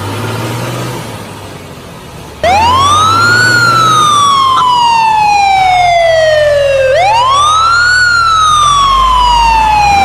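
A loud siren begins suddenly about two and a half seconds in, each cycle rising quickly and then falling slowly, repeating about every four and a half seconds. Before it, a low engine-like hum.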